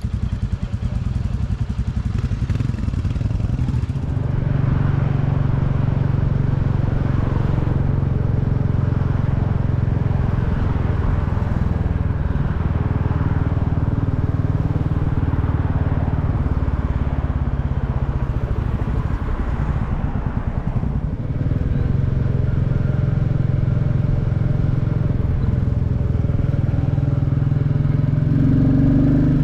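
Single-cylinder Royal Enfield 350 motorcycle engine running steadily under way. The engine note drops briefly about four seconds in and again about twenty-one seconds in.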